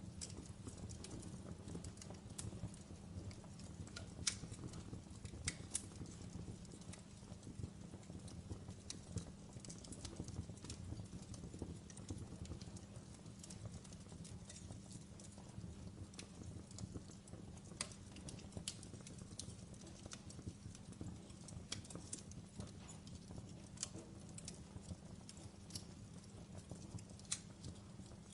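Logs burning in a fireplace: a low, steady rumble of flame with scattered crackles and sharp pops, a few louder snaps about four and five and a half seconds in and again near the end.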